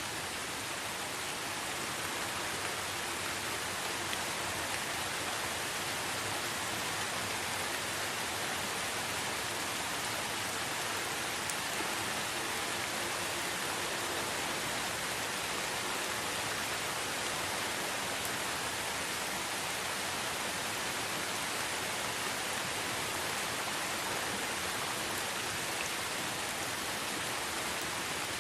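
Steady rain falling: an even hiss of many fine drops, unchanging throughout.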